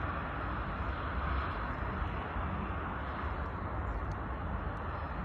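Jet airliner engine noise: a steady rush over a low rumble, easing slightly near the end.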